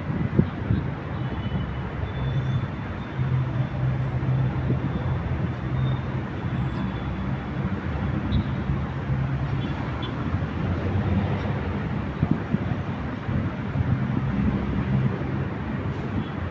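City street traffic: a steady rumble of passing vehicles, with a deep engine hum from a heavy vehicle coming up about three seconds in and again around eleven seconds.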